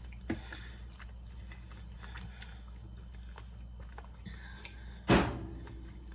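Person chewing a bite of cooked chicken, with faint clicks over a steady low hum. About five seconds in comes one sharp knock with a short ring.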